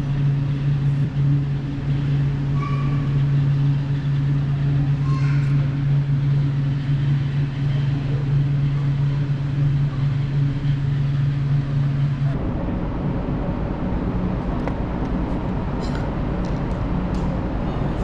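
A steady low mechanical hum that changes abruptly about twelve seconds in to a rougher, lower rumble.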